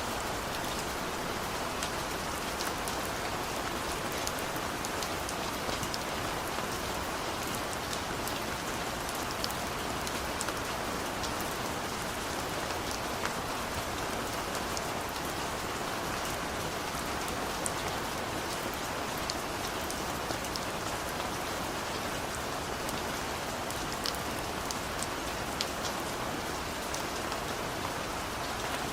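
Steady rain falling on surfaces, an even hiss with scattered sharp drop ticks and no thunder.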